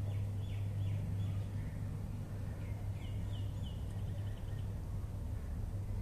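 Faint bird chirps: a few short falling notes near the start, then a quicker run of them from about halfway, over a steady low hum.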